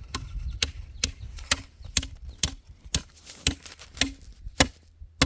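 Chopping blows on wood, about ten sharp strokes at an even pace of roughly two a second.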